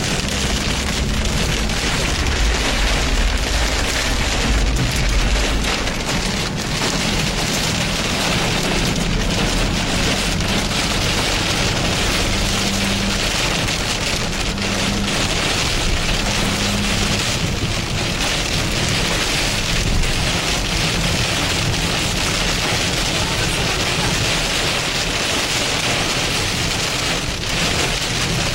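Steady heavy rain noise, with a low rumble underneath in the first few seconds.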